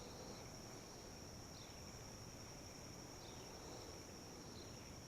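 Insects trilling steadily at one high pitch, faint, with a short falling chirp repeating about every second and a half.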